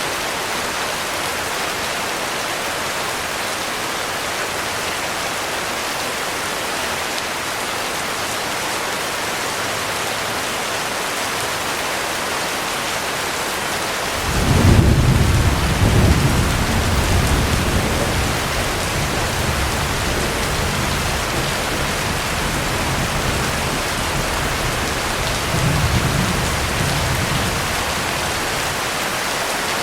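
Heavy rain falling steadily, with a roll of thunder breaking in suddenly about halfway through, loudest for the first couple of seconds, then rumbling on and swelling once more near the end.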